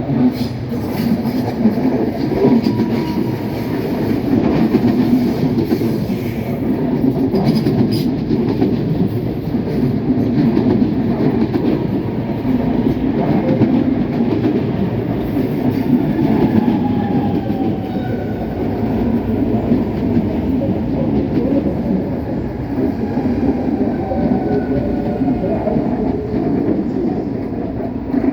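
CPTM electric commuter train running with a steady rumble and wheel clatter over the rails. A faint falling whine in the second half shows it slowing as it comes into the station.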